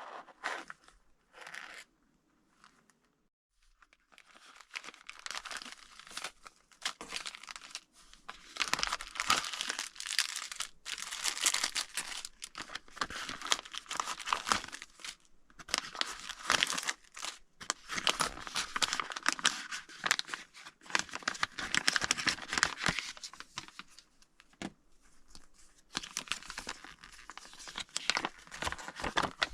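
Plastic packaging being crinkled and torn open by hand: irregular rustling and crackling in bursts with short pauses, sparse at first and continuous from a few seconds in.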